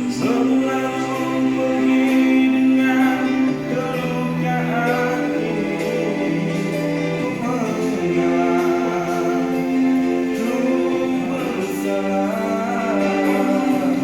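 Group of voices singing a slow song in close harmony: held chords under a moving lead melody.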